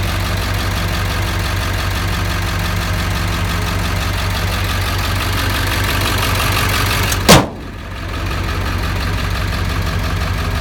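The pickup's 7.3-litre diesel V8 idling steadily. About seven seconds in, a sharp loud click cuts across it; the sound dips briefly and then comes back.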